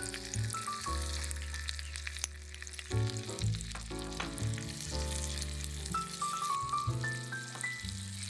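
Gentle background music with a stepping melody and bass line, over the steady crackling sizzle of diced onion and garlic frying in oil in a miniature clay pot.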